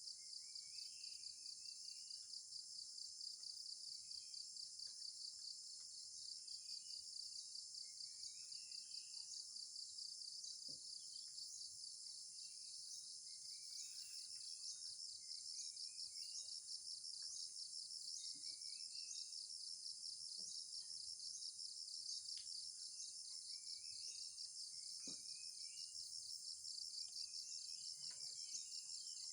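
Forest insect chorus: a dense, steady, high-pitched trill with a fine pulse, with a bird calling short chirping phrases every few seconds over it.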